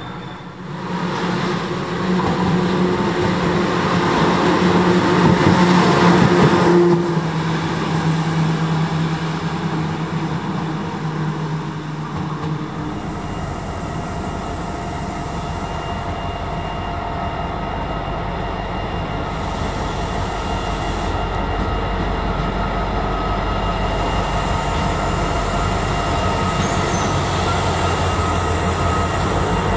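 Orange CP electric locomotive hauling passenger coaches past, with a steady low humming from its motors over rail noise. About 13 s in this gives way to a red diesel freight locomotive passing with a deep engine rumble that slowly grows louder.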